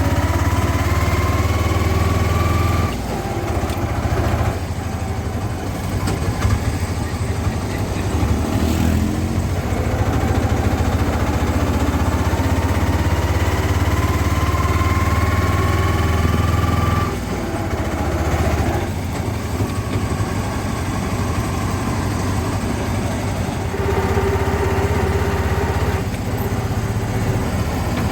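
A motor vehicle on the move: a steady low engine rumble, with a whine that climbs slowly in pitch as it gathers speed and then drops back, a few times over. The sound changes abruptly several times.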